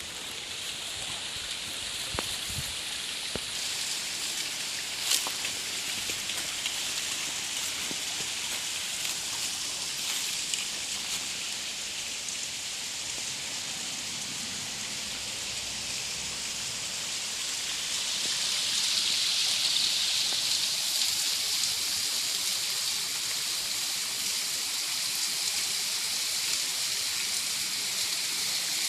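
Rushing water from a small waterfall and stream: a steady hiss that grows louder about two-thirds of the way through, with a few sharp clicks in the first seconds.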